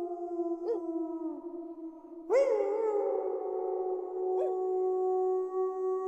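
Several wolves howling together, long overlapping howls that slowly fall in pitch; a new, louder howl breaks in with a sharp rise about two seconds in.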